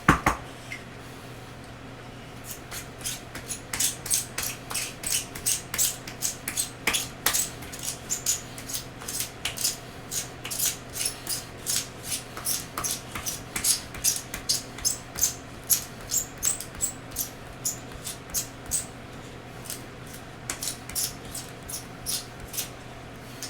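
A pencil being sharpened in a manual pencil sharpener: a rhythmic train of short, bright scraping strokes, about two to three a second, thinning out near the end. A sharp knock comes right at the start, over a steady low fan hum.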